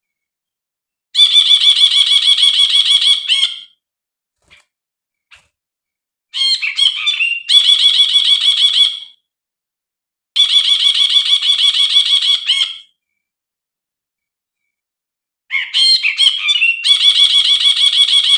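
Brinji (bulbul) calling: four phrases of rapid, harsh repeated notes, each two to three seconds long with short pauses between, the second and fourth opening with a few quick sliding notes.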